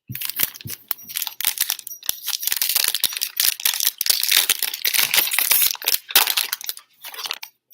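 Plastic wrapper of a trading-card pack being torn open and crinkled, a dense crackling that stops about seven seconds in.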